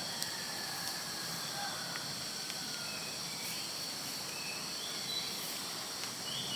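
Steady chorus of insects, a continuous high buzzing drone, with a few short, high bird notes scattered through it.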